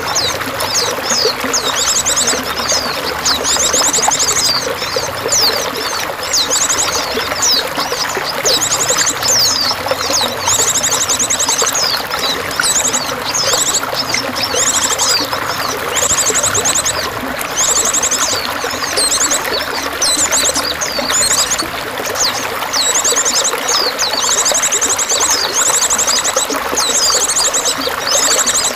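Steady running water with songbirds singing over it: many quick high chirps and whistles, with a rapid high trill of about a second repeated every few seconds.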